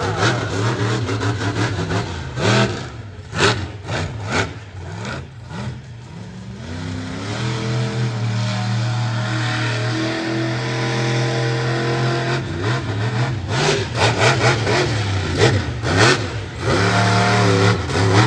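Monster truck engine revving hard, its pitch climbing and dropping repeatedly, with clusters of sharp cracks in the first few seconds and again near the end.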